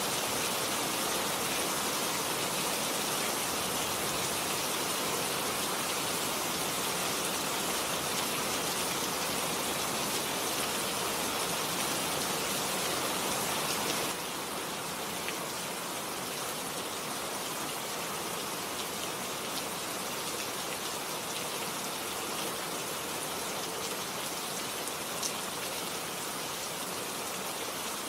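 Steady rain falling, a dense even hiss of drops. About halfway through it steps down a little in loudness, and a few single drop ticks stand out after that.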